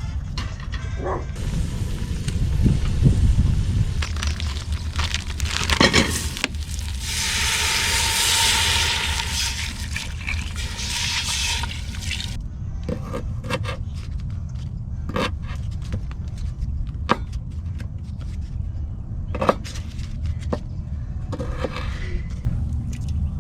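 Liquid poured for about five seconds in the middle, among scattered clinks and knocks of camp cooking, over a steady low rumble.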